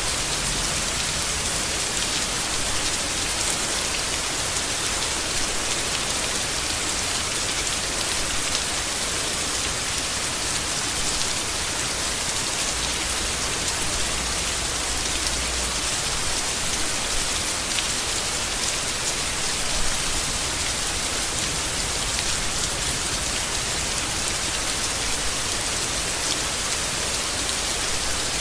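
Steady rain falling on leaves, an even hiss of drops, with a faint low rumble swelling for a few seconds around the middle.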